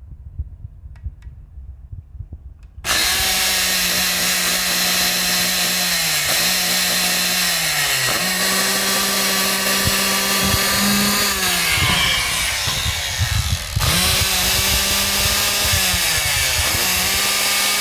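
Electric motor switching on about three seconds in and running with a steady whine that keeps sagging in pitch and recovering, four times, stumbling like a misfire; the motor is faulty.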